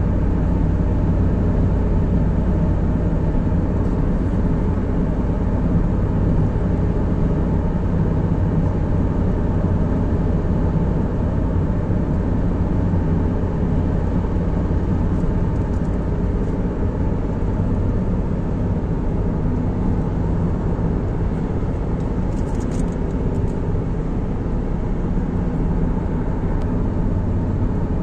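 A car travelling along a road: a steady rumble of engine and tyre noise.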